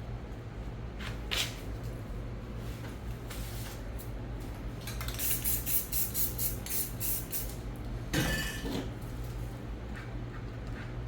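Spray-paint work: a quick run of short, sharp clinking hisses, about three or four a second, in the middle, and a longer scraping sound with a faint ring about eight seconds in. A steady low hum runs underneath.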